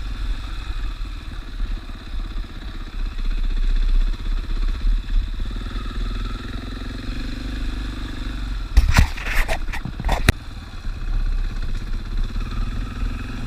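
A 450 cc single-cylinder dirt bike engine running while riding, its pitch rising and falling with the throttle. About nine to ten seconds in comes a short burst of sharp knocks and rattles.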